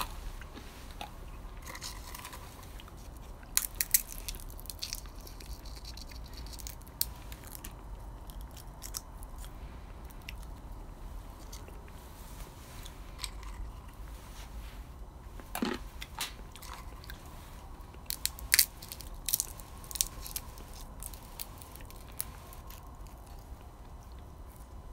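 Scattered crunches and cracks of someone biting into and chewing beans roasted over a wood fire, over a low steady hum.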